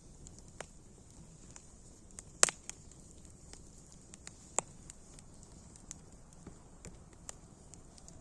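Wood fire crackling: irregular sharp pops over a soft steady hiss, with one louder pop about two and a half seconds in.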